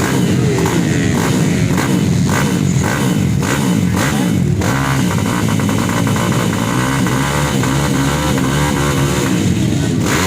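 Kawasaki KLX dirt bike's single-cylinder four-stroke engine running loud and being revved again and again, its pitch rising and falling with each blip of the throttle.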